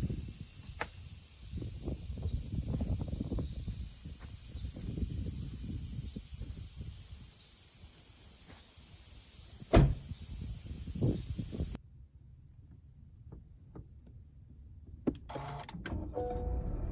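Steady high-pitched insect chorus over rustling and scattered knocks, with one sharp knock about ten seconds in; it cuts off abruptly, leaving quiet with a few faint clicks.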